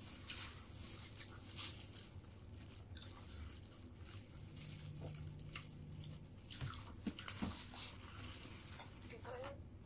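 Eating fried chicken: chewing and biting, with scattered short sharp mouth clicks and a low hum for about two seconds in the middle.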